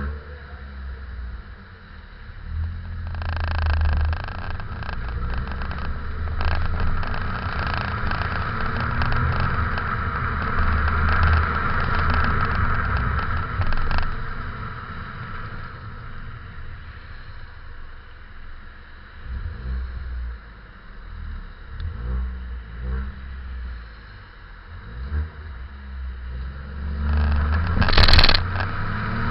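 Ford Fiesta EcoBoost engine and stock exhaust, heard from a camera fixed at the back of the car while driving around an underground car park. The engine pulls up, eases off and picks up again, with tyre noise and small rattles, and there is a short, sharp clatter near the end.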